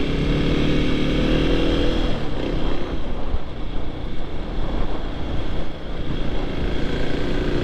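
Motorcycle engine running under way, with wind rushing over the microphone. The engine note rises slightly over the first two seconds, then sinks into the steady wind noise.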